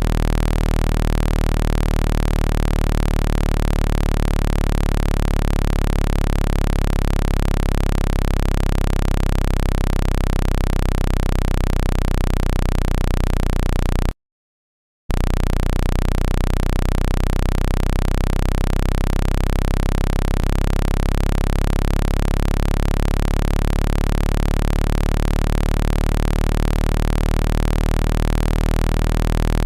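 Low, buzzy synthetic water-eject tone for phone speakers, a steady electronic hum with many overtones, meant to shake water out of a wet speaker. It breaks off for about a second midway, then resumes unchanged.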